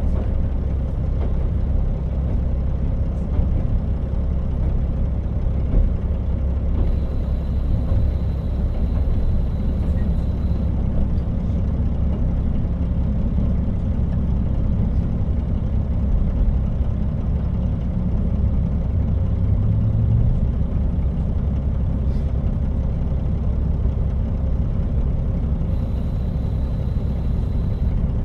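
Inside a KiHa 40 diesel railcar running along the line: a steady low rumble of the diesel engine and the wheels on the rails. A faint high tone comes in twice.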